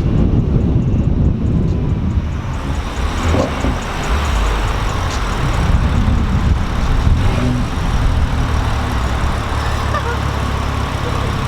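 Car engine running with road and traffic noise, a car being driven.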